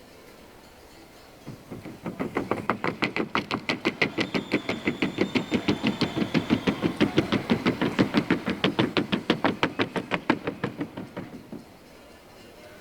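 Paso fino mare's hooves striking a wooden sounding board in the trocha gait: a fast, even beat of about eight hoof strikes a second. It rises to full loudness and fades away over about ten seconds as she crosses the board.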